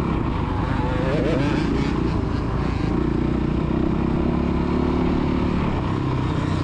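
Dirt bike engine running on a motocross track, steady, with the revs rising briefly about a second in.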